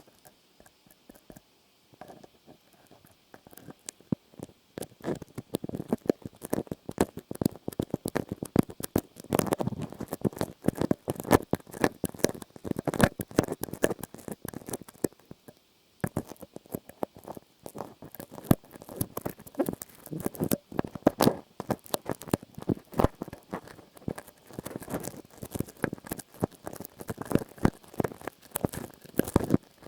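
ASMR trigger sounds: dense, rapid crackling and scratching with many small clicks. It is faint at first and builds up from about four seconds in, breaks off for an instant at about sixteen seconds, then carries on just as busy.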